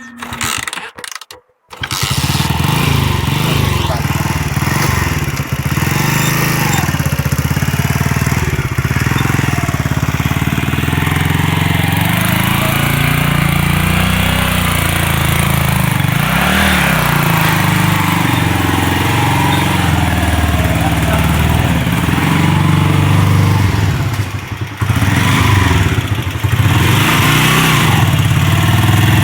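An engine starting up about two seconds in and then running loudly, its revs rising and falling, with a brief dip near the end before it picks up again.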